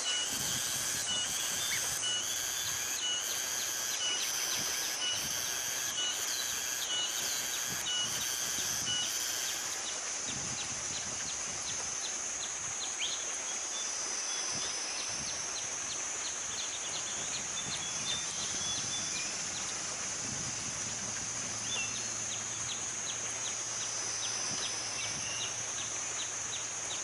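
Outdoor natural ambience: a steady high-pitched insect drone with a slowly wavering pitch, a call repeating about every half second for the first ten seconds, then rapid ticking and scattered short bird chirps.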